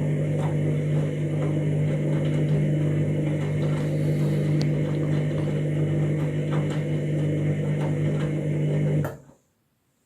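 Washing machine running with a steady low electric hum and faint ticks, which cuts off abruptly about nine seconds in.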